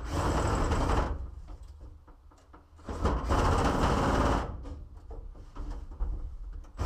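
Power drill boring a rivet hole, run in short spurts: about a second, then a pause, then another second and a half, starting again at the end.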